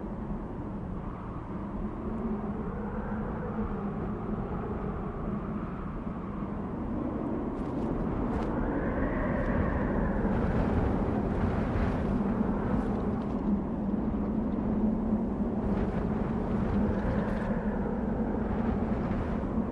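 Desert wind blowing in gusts, with a moaning whistle that swells and falls in pitch and a steady low hum underneath. It grows louder about halfway through, with sharper hissing gusts.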